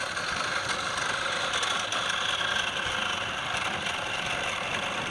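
Electric power tool running steadily while working wood, a dense mechanical whirring with a high, even whine.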